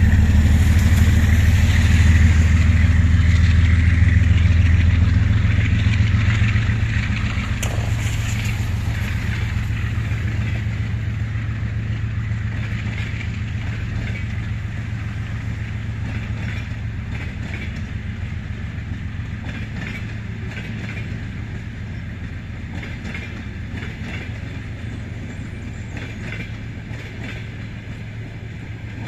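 Passenger train coaches rolling past, wheels clattering steadily on the rails. A low engine drone fades over the first several seconds, and the whole sound slowly grows quieter.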